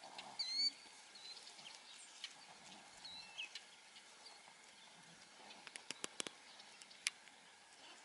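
Small bird chirping: several short, high chirps in the first few seconds. A handful of sharp clicks follows about six seconds in, with one more about a second later.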